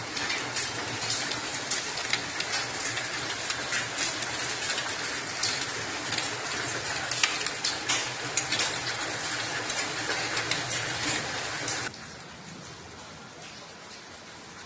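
Rain falling, a dense hiss full of sharp drop splashes. About twelve seconds in it cuts abruptly to a quieter, smoother rain hiss.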